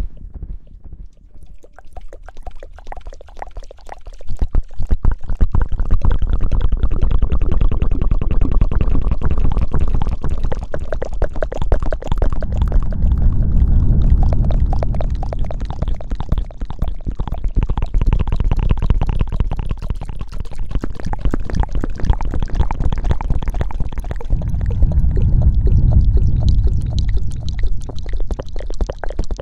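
Close-miked ASMR hair-washing sounds: wet lathering and scrubbing right on the microphone, a dense crackle over a low rumble that gets much louder about four seconds in.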